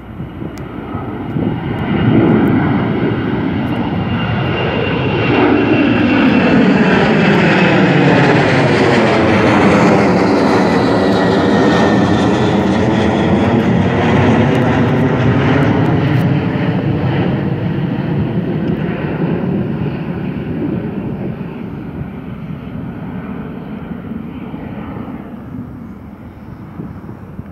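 Jet airliner departing and passing by: the engine noise builds over several seconds, peaks about ten seconds in with a high whine that slowly falls in pitch, then fades away.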